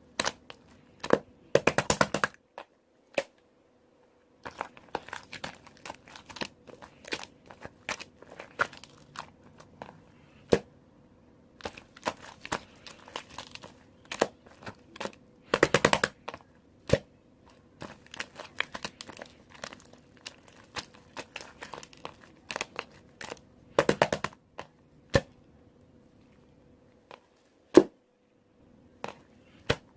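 Mixed slime being squished and pressed by hand, making a run of sticky clicks and small air-bubble pops, with three denser bursts of crackling.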